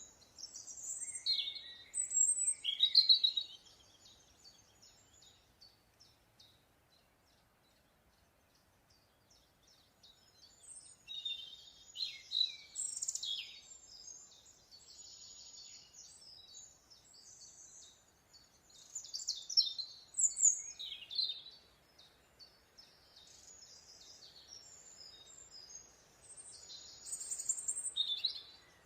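Birds singing in repeated bursts of high, quick chirps and trills, with quieter stretches between phrases, over a faint steady hiss.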